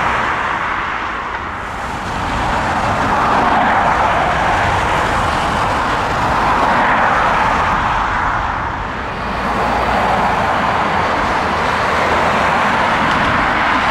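Jet engines of a Boeing 757 airliner running at high thrust: a loud, steady rush that swells and eases a few times.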